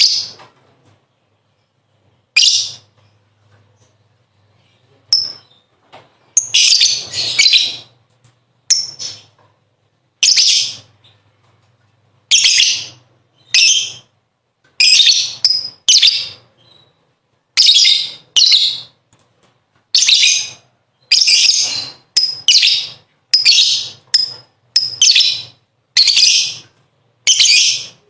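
Lovebird giving its ngekek chatter in repeated short, high-pitched bursts, sparse at first and then coming about once a second or faster, with one longer run of chatter early on.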